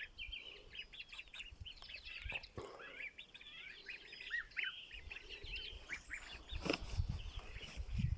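Many young chicks peeping: a steady run of short, high chirps. A low rumble and a dull thud come in during the second half.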